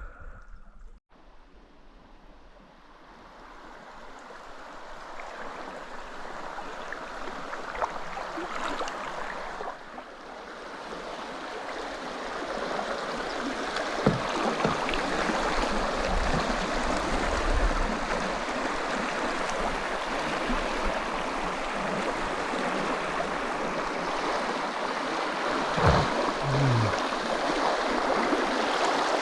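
Rushing river water, a steady hiss of flowing current that swells over the first dozen seconds and then holds, with a couple of brief knocks partway through.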